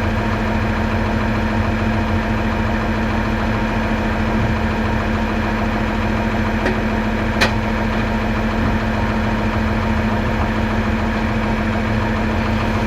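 An engine idling steadily, with an even hum that does not change. A single sharp click about seven seconds in.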